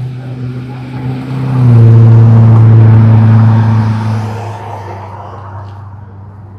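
A car's engine as the car drives past: a steady low engine note that swells to its loudest about two seconds in, dips slightly in pitch, and then fades away.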